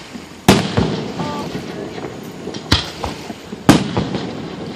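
Aerial fireworks exploding: three sharp booms, about half a second in, near the three-second mark and a second later, with smaller pops and crackle between them.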